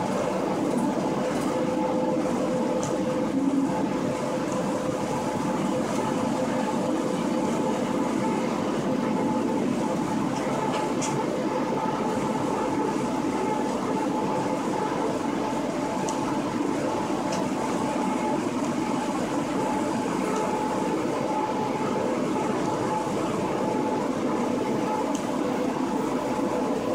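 Running noise heard inside the cab of a DB Class 143 electric locomotive travelling at line speed: a steady rumble of wheels on rail with a constant hum, broken by a few faint sharp ticks.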